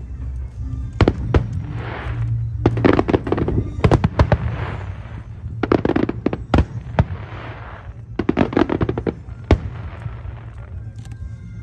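Aerial fireworks display: shells bursting in repeated sharp bangs, with a crackling hiss that swells and fades after several of the bursts, over a steady low rumble.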